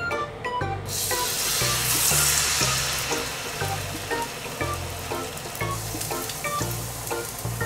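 Battered pieces of tuna frying as tempura in hot oil in a frying pan: a loud sizzle breaks out about a second in as a piece goes into the oil, then keeps up a steady bubbling sizzle. Light background music plays under it.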